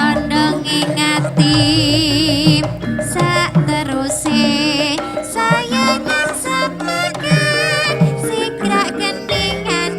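Javanese gamelan ensemble playing, with a wavering vibrato melody line over sustained struck metal tones and regular percussion strokes.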